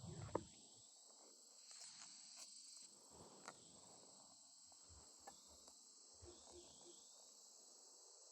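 Near silence: a faint, steady high-pitched hiss, with a few soft clicks.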